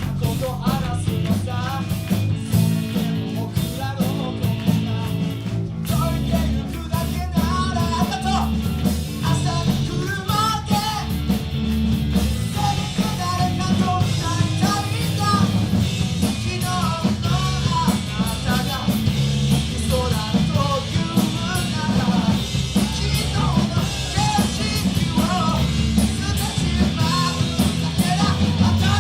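Live rock band playing: drum kit, bass, electric guitars and keyboard, with a melody line bending over them.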